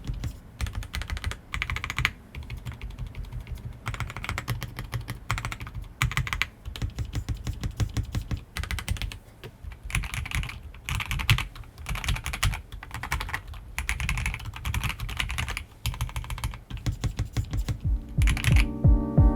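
Typing on a KBD67 Lite R1 mechanical keyboard with lubed and filmed C3 Fierce Girls switches and Durock V2 stabilisers: a continuous run of deep 'thock' keystrokes with bursts of brighter clicks. Near the end, piano music comes in under the typing.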